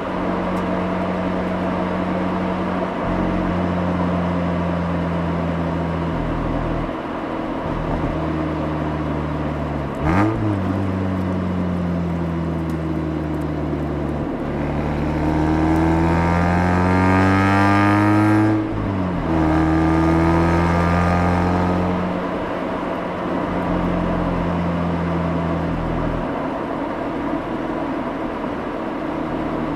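Mazda RX-8's twin-rotor Wankel engine heard at the exhaust, running steadily under way, with a brief jump in pitch about a third of the way in. About halfway through it accelerates with rising pitch, drops sharply at an upshift, pulls briefly again, then settles back to a steady cruise.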